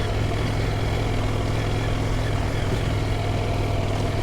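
Adventure motorcycle engine running steadily at low, even revs, with no revving.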